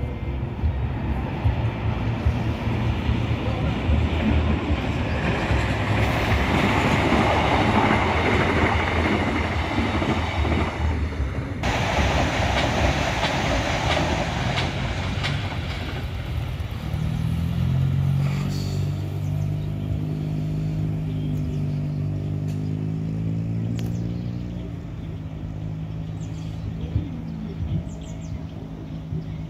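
An ITX-Saemaeul electric train passing on the line: the rush of its wheels on the rails builds to its loudest about a third of the way in, then gives way to a steady low hum as it draws away.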